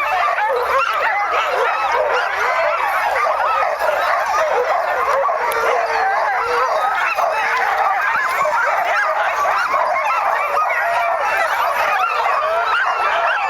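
A pack of sled dogs yelping, whining and barking all at once in an unbroken chorus, eager to run.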